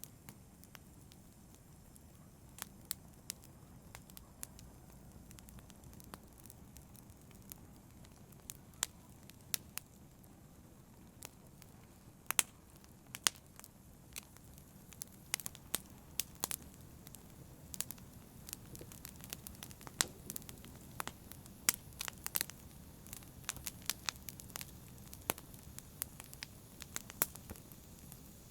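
Campfire burning with sharp crackles and pops of wood, scattered at first and coming thicker from about halfway on, over a low steady rumble of the flames.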